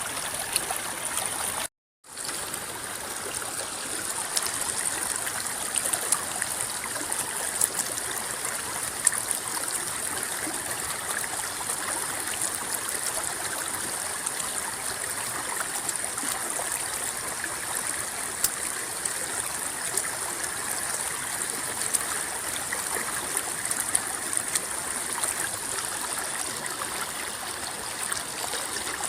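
River water flowing and rippling in a steady stream, with scattered small splashes. About two seconds in, the sound cuts out completely for a moment, then fades back in.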